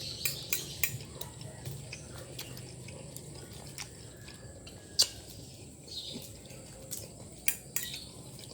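Close-miked eating sounds: soft chewing with scattered sharp clicks of utensils on dishes. The loudest click comes about five seconds in.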